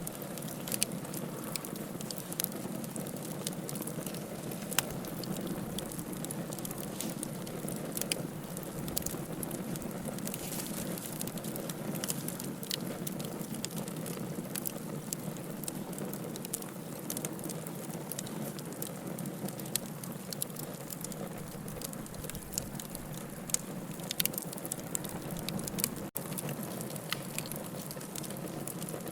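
Wood logs burning in a fireplace: a steady low rush of flame with frequent small crackles and occasional sharper pops.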